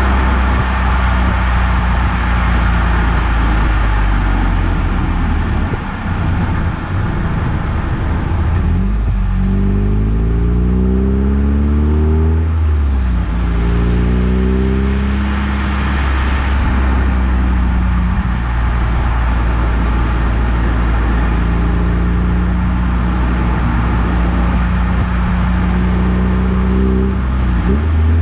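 Eunos Roadster (Mazda MX-5) driving with its engine running and road noise throughout. The engine climbs in revs twice near the middle, dropping back in between, and otherwise runs steadily.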